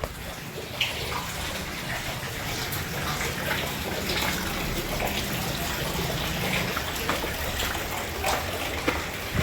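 Heavy rain pouring down and splashing, a dense steady hiss dotted with sharp drop impacts, over a low rumble.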